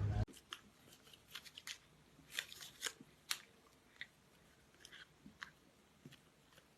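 Faint, irregular small clicks and crunches over near silence.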